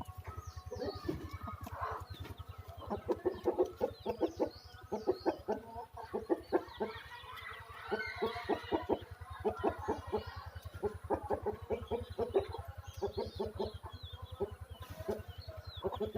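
Aseel chickens clucking in quick runs of short notes, with high, short chirps above them and a steady low hum underneath.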